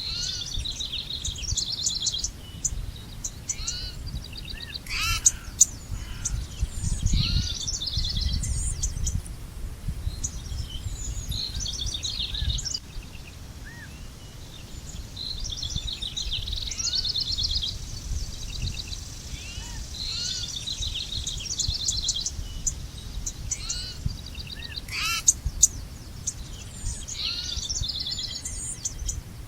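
Several songbirds singing and chirping at once, with rapid trills and short rising calls overlapping throughout, over a low rumble that swells briefly a quarter of the way in.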